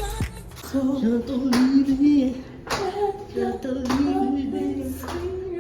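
Woman singing a slow melody with held notes, over sharp claps about once a second.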